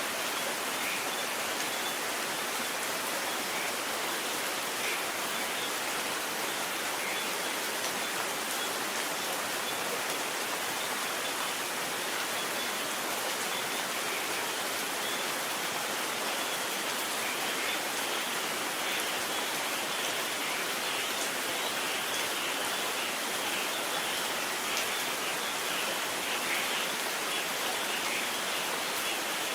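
Rain falling steadily: an even hiss with scattered small drop ticks.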